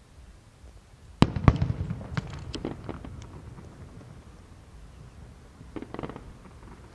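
Fireworks going off: two sharp bangs about a second in, followed by a couple of seconds of crackling pops, and another smaller cluster of pops near the end.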